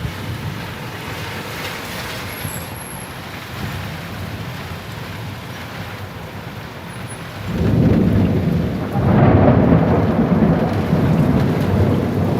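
Steady rain, then about two-thirds of the way through a loud low rumble of thunder swells up and keeps rolling.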